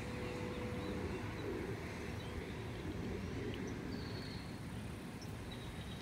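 Faint, sparse bird chirps, with one short high whistle about four seconds in, over a steady low rumble of outdoor noise.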